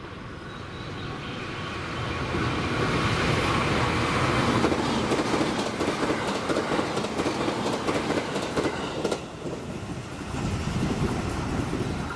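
JR East E655 series train running through the station without stopping: a rumble that swells as it draws near, then a run of quick wheel clicks over the rail joints as the cars pass, easing off as it goes by.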